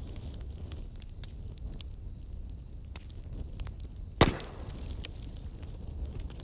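Wood fire in a fireplace crackling steadily with small snaps, and one loud sharp pop of burning wood about four seconds in.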